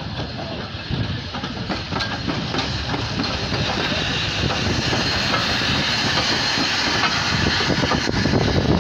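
Rx class 4-8-0 steam locomotive running with a steady hiss of steam over the rumble and clatter of the train on the rails, growing steadily louder.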